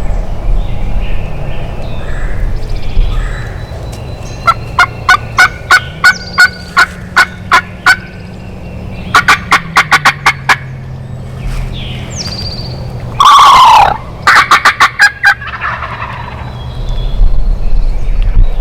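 Wild turkey calling: runs of short, sharp notes at about two to three a second, and one loud gobble about thirteen seconds in, followed by another quick run of notes.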